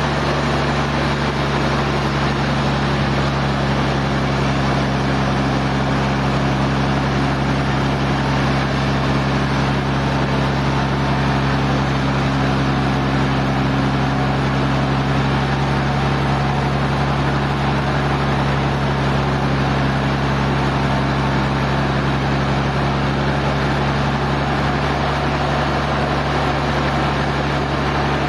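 Sawmill machinery running steadily: a continuous loud mechanical drone with a low hum and no distinct knocks or changes.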